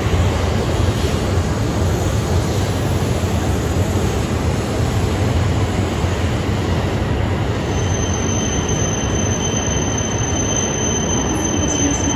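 Coupled E6-series Komachi and E5-series Hayabusa shinkansen, a 17-car train, rolling slowly along the station platform with a steady heavy rumble. A thin high squeal joins in about two-thirds of the way through.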